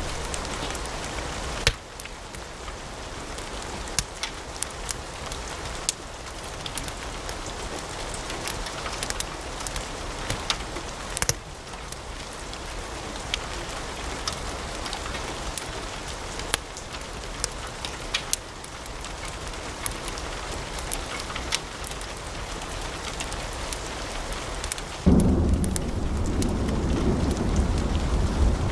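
Wood fire in a fireplace crackling, with many sharp pops and snaps over a steady hiss. About 25 seconds in, a louder, deep rumble of the fire comes in suddenly.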